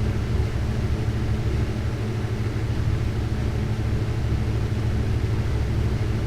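Steady low roar of a glassblowing bench torch burning while a glass tube is heated in its flame.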